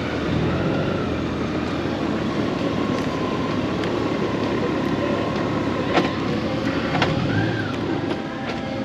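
Honda Gold Wing's flat-six engine running under a steady rush of road noise, with sharp clicks about six and seven seconds in.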